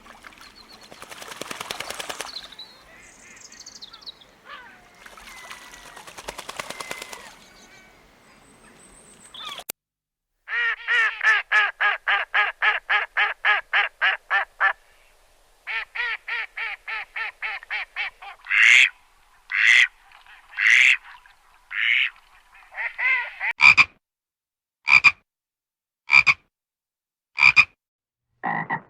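A frog croaking: a fast, even run of pitched croaks, about five a second, then a string of separate single croaks at intervals of about a second. Before the croaking, two rising-and-fading swells of noise fill the first ten seconds.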